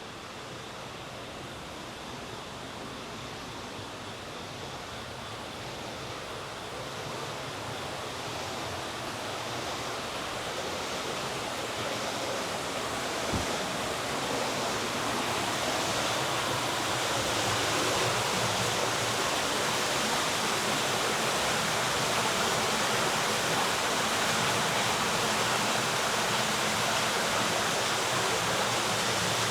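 Steady rush of flowing water, like a stream or channel running fast. It grows louder over the first half and then holds level, with a single soft knock about halfway through.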